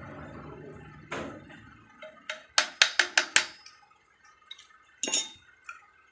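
Hard metal parts clinking together: a knock about a second in, a quick run of about five sharp clinks, then one more near the end, over a low rumble that fades out in the first second or so.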